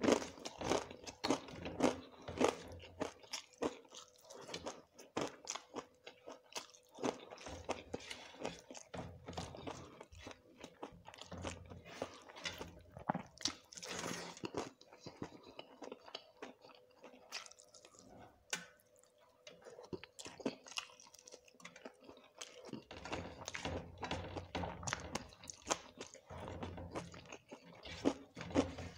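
Close-miked chewing and crunching of mouthfuls of rice with crisp fried bits, eaten by hand, with fingers mixing rice on a steel plate; a steady run of short wet smacks and crisp crunches, thinning to a quieter stretch about halfway through.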